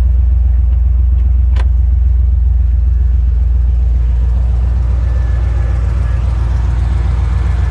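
1999 Camaro SS's 5.7-litre V8, with a mild cam, long-tube headers and Flowmaster dual exhaust, idling steadily. A single sharp click about one and a half seconds in.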